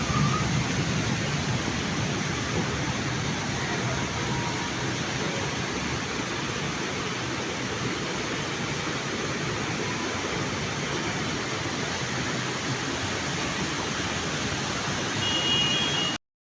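Heavy rain pouring down, a steady hiss with no breaks, cutting off suddenly near the end.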